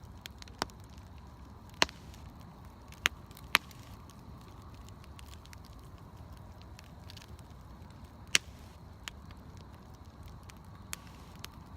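Campfire burning with sharp, irregular pops and crackles from the wood, a handful of louder cracks standing out, over a steady low hiss and rumble.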